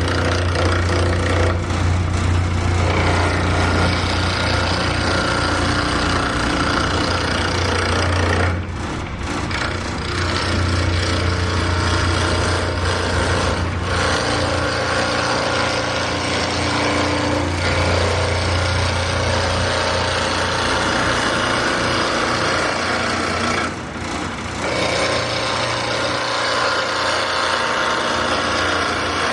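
Union Jubilee wood lathe running with a turning tool cutting a spindle blank, roughing it toward round with light passes: a steady motor hum under a continuous rough cutting noise, which eases off briefly twice.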